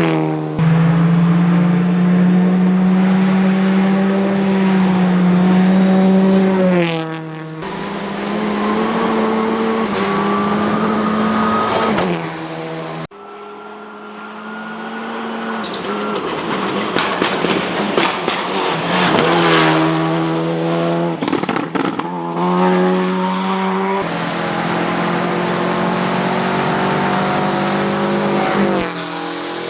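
Rally car engines running at high revs, the pitch dropping and climbing again as the cars shift gear and pass by. The sound changes abruptly several times, as separate clips are cut together.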